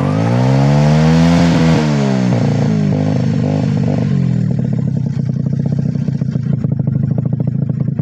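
Motorcycle engine running after being coaxed into life. It revs up and falls back over the first two seconds, runs unevenly for a moment, then settles into a steady idle. The owner fears water got into the engine during the wash, and it is still running a little unwell.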